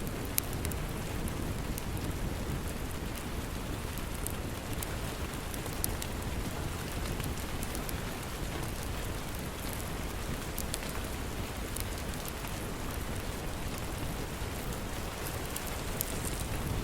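Steady rain with a deep, even rushing undertone, mixed with scattered sharp crackles and pops from a wood fire.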